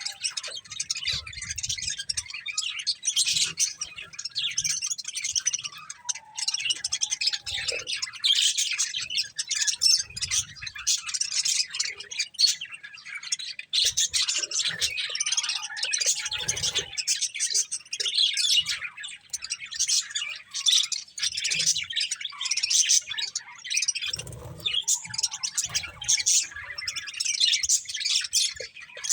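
Several budgerigars chirping and chattering without a break, in quick high chirps, with a few low thuds here and there.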